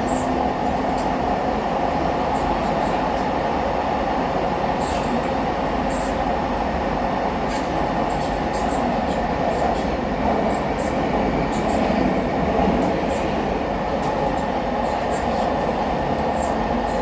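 KVB B80D light-rail car running between stops: the whine of its new traction converter over the old traction motors, with wheel and rail noise and scattered small clicks. The pitch bends briefly about eleven to thirteen seconds in.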